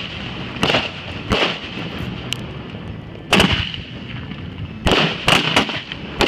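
Aerial fireworks bursting: about eight sharp bangs at irregular intervals, each with a short tail.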